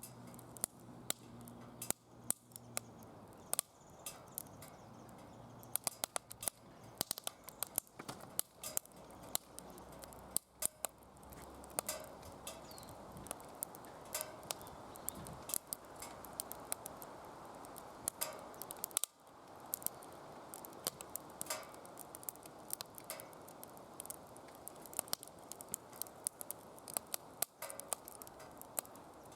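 Firewood burning in a DOD Mecha Moe Fire secondary-combustion fire pit: a dense, irregular run of crackles and sharp pops over a steady rush of flame.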